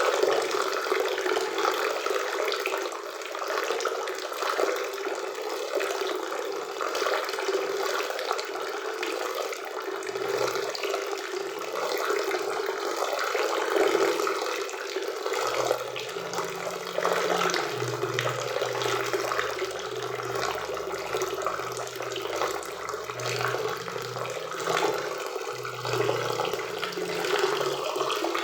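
Waterfall and river water rushing, a steady dense splashing. A faint low hum comes and goes from about halfway through.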